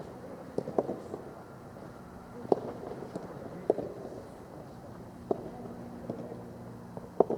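Soccer balls being struck by players' feet in a dribbling drill: sharp, irregularly spaced thuds, about half a dozen, over a low background murmur.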